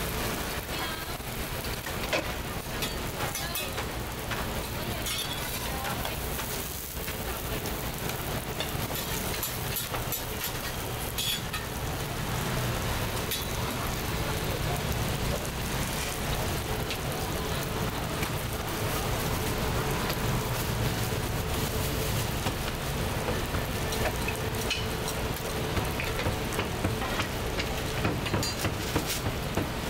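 Scallion pancakes frying in hot oil on a griddle: a steady sizzle with scattered crackles.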